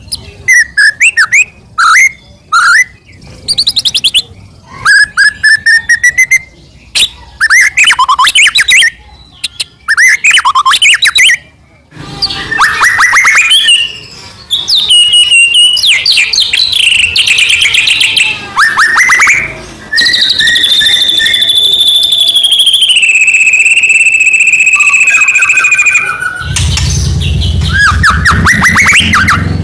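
White-rumped shama (murai batu) singing loudly and continuously: a fast, varied run of short whistled phrases and trills, then a long held whistle that steps down in pitch near the middle, and harsher buzzy notes near the end.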